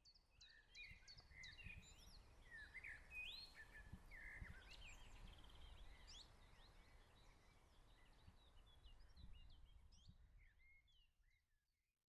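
Faint birdsong: many short chirps and whistles from several birds over a low rumble, fading out near the end.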